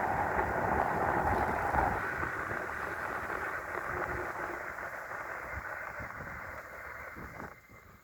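Wind rushing over the microphone of an electric bike riding at speed. It is loudest at first, then fades steadily as the bike slows, and drops away near the end.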